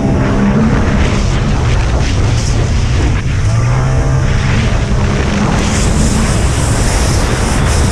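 Personal watercraft engines running hard, their pitch rising and falling twice, over a heavy, continuous low rumble.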